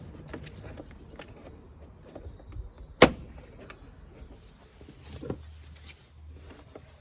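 A sharp, loud snap about three seconds in, with lighter clicks and knocks around it: the plastic trim clips of a Land Rover Freelander 2 door card popping loose as the card is pried off the door.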